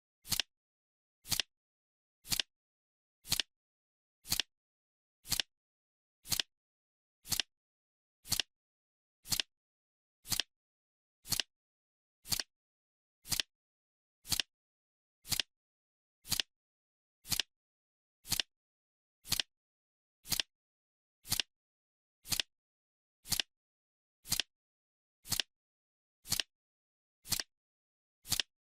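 Countdown timer's clock-style ticking: a short, crisp tick exactly once a second, with silence between ticks.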